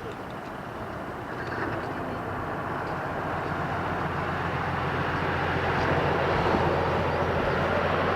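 Jet airliner's engines drawing near, a broad rushing noise with a low hum that grows steadily louder.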